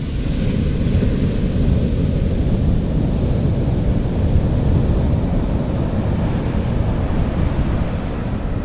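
Sea waves washing onto a beach: a wave breaks just as it starts and its hissing wash fades over the next few seconds, over a steady low rumble of wind on the microphone.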